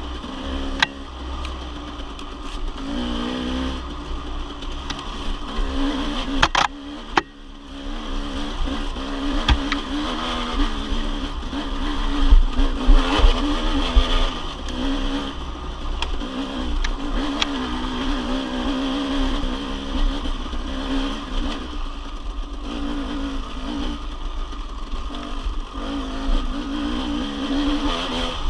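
Dirt bike engine running under way, its pitch rising and falling with the throttle, over a heavy low rumble. A few sharp knocks come through, two of them close together about a third of the way in.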